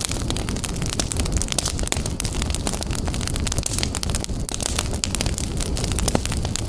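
Wood fire burning in a fireplace: a steady low rumble of flames with dense, irregular crackles and pops throughout.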